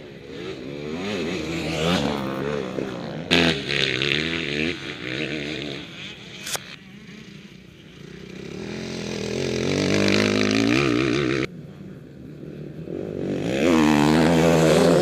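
Motocross bikes racing, their engines revving up and down as the riders work the throttle. The sound swells several times as bikes come by, breaks off suddenly about two-thirds of the way in, then builds again to its loudest near the end.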